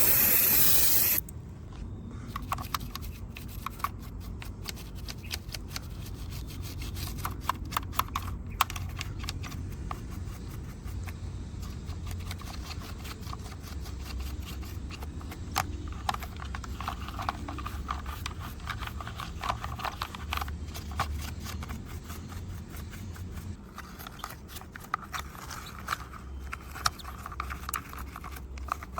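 Hands scrubbing and scraping a muddy diecast model car with small cleaning tools, giving irregular scratchy rubbing with many light clicks and taps, after a brief loud hiss at the start.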